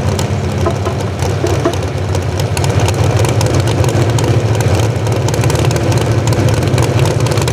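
Naturally aspirated 650-cubic-inch big-block V8 of a modified 4x4 pulling truck idling with a steady, loud low rumble.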